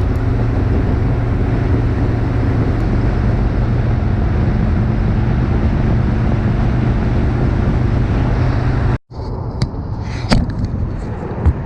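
Harley-Davidson Road King's V-twin engine running steadily at road speed, with wind rushing over the microphone. About nine seconds in it cuts off abruptly, and a quieter road noise with a few sharp clicks follows.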